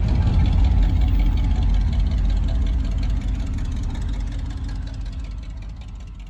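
A vehicle engine running steadily with a low rumble, fading out over the last few seconds.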